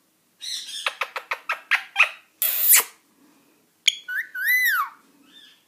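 Indian ringneck parrot vocalising without words: a quick run of about eight clicks, a short noisy squawk about halfway through, then two arching whistled chirps.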